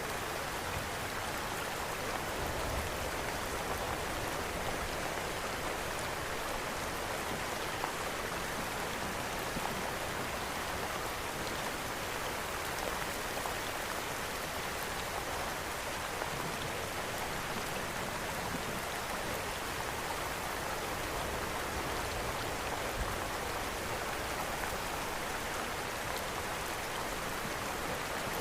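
Steady rain falling in an even hiss, mixed with the odd soft crackle of a wood fire in a fireplace.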